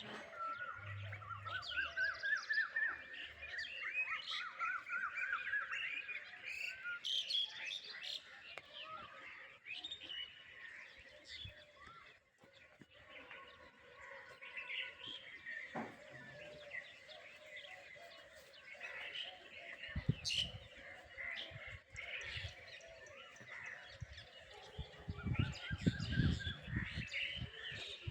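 Several birds calling and chirping in a village morning chorus. In the first few seconds one bird gives two runs of quick notes that climb in pitch. From about two-thirds of the way in, a low rumbling noise sits under the calls.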